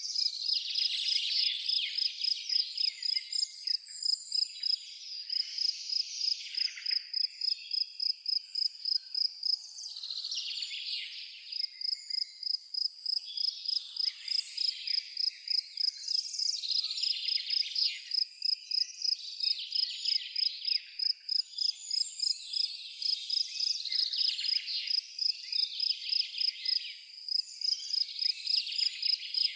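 A cricket chirping steadily at a high pitch, about three chirps a second, pausing briefly twice, while songbirds sing over it.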